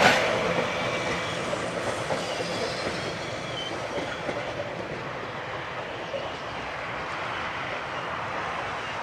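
Metrorail suburban electric multiple-unit train running past on the rails. Wheels click over rail joints at the start, then the running noise fades over the first couple of seconds and holds steady as the train draws away.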